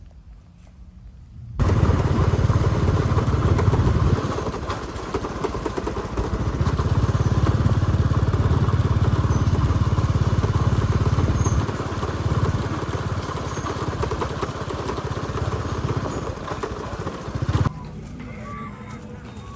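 Motorbike running while being ridden, with heavy rumble on the microphone that swells and eases. It starts suddenly about a second and a half in and cuts off abruptly near the end.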